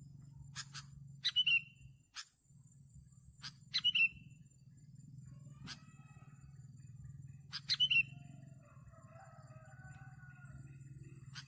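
Sooty-headed bulbul (kutilang) calls: four clusters of sharp, downward-sweeping chirps a few seconds apart, with fainter, lower warbling near the end and a steady low hum beneath.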